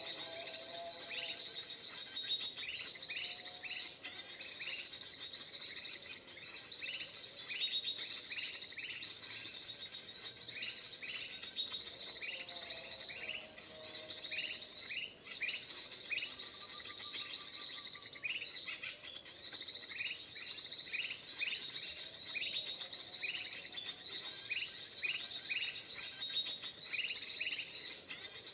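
Kutilang emas (bulbul) calls from a lure recording, a dense run of bright chirps that repeats in an even pattern with no break.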